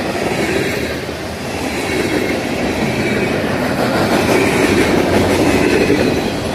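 Freight train rolling past close by: steel wheels clattering over the rails with a steady rumble, growing a little louder in the second half.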